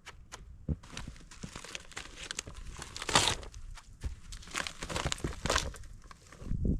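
Plastic maple sap collection bag crinkling and rustling as it is handled, with louder crackles about three seconds in and again near five seconds.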